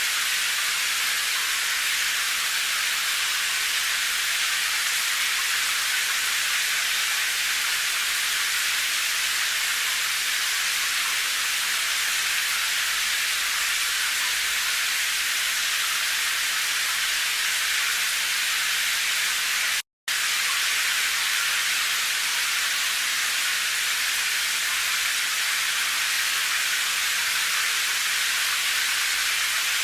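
Steady rain, an even hiss without distinct drops or rhythm. It cuts out completely for a split second about two-thirds of the way through, then resumes unchanged.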